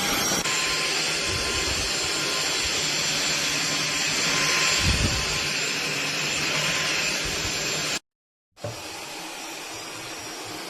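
Cordless stick vacuum cleaner running: a steady rush of air with a thin motor whine. The sound cuts out for about half a second near eight seconds in, then comes back quieter.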